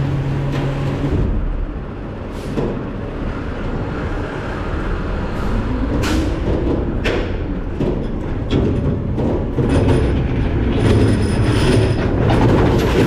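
Rear-loader garbage truck working: the diesel engine and hydraulics run with a steady rumble, with metal clanks and bangs from the hopper and packer. The engine note rises in pitch around the middle, and faint high whines come in near the end.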